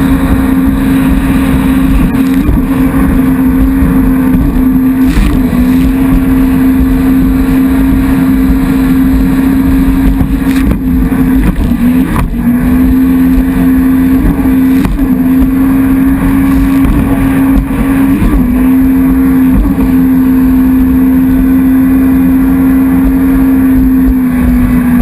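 Jet ski engine running loud at steady high revs with rough water and wind noise underneath; the engine note dips briefly in pitch a few times and recovers.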